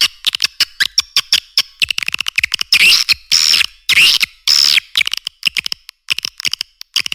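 Recorded swiftlet calls used to lure swiftlets into a nesting house: rapid runs of dry clicks and twitters broken by longer buzzing chirps, mixed with chick-response calls. The rhythm is fast and uneven, with a brief lull near the end.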